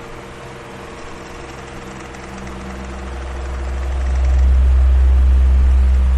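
Electric fan running steadily, a whooshing noise with a faint motor hum. A deep rumble of moving air swells up about four seconds in and starts to ease off near the end.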